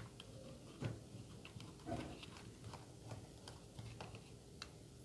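Faint scattered clicks and a few light knocks from a small screwdriver and the plastic remote-control case as the case screw is driven back in.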